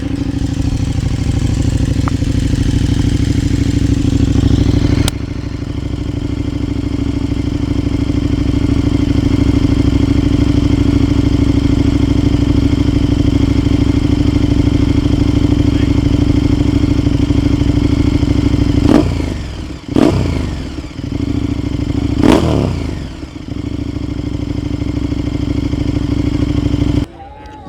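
A car engine running at a loud, steady idle through its exhaust, blipped three times in quick succession near the end, each rev rising and falling fast, before the sound cuts off abruptly.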